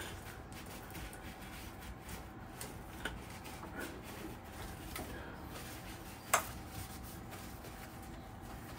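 Faint handling noises from hands and tools during cleanup, over a steady faint hum, with one sharp click a little past six seconds in.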